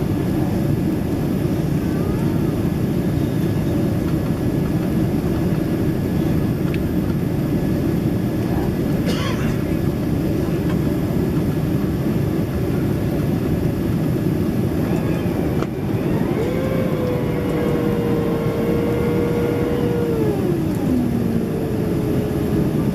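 Steady cabin noise inside a Boeing 767-300ER, a constant low rush of engines and airflow. Near the end a held, pitched tone sounds for a few seconds and slides down in pitch, followed by a shorter one.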